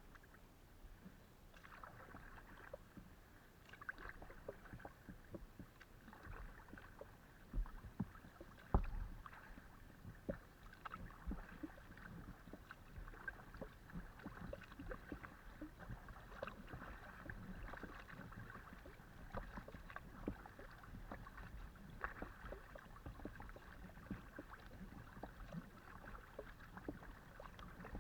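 Kayak paddling heard from a camera mounted on the hull: water splashing and rippling with each paddle stroke, with small irregular knocks on the hull and two louder thumps around 8 and 9 seconds in.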